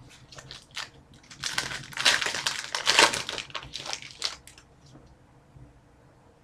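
Trading cards and their packaging being handled: a run of quick rustles and clicks, busiest and loudest in the middle, then dying away.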